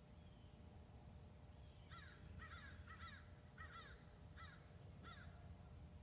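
Faint bird calls: a quick run of about six short, repeated calls, starting about two seconds in and ending a second before the close, over a faint steady low hum.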